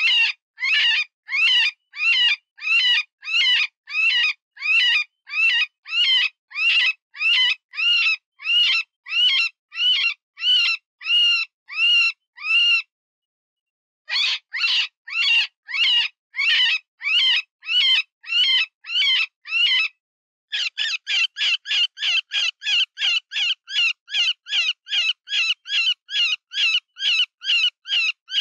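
Cottontail rabbit distress call used for predator calling: a long series of high, wavering screams, each rising then falling, about two a second. They stop for about a second near the middle, then resume and quicken to about three shorter cries a second for the last third.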